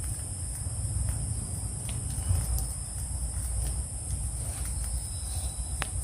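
Steady high-pitched chorus of night insects such as crickets, over a low steady rumble, with a few faint clicks and one sharper click near the end.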